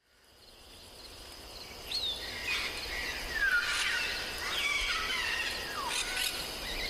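Nature ambience fading in from silence: several birds chirping and whistling over a steady high insect drone.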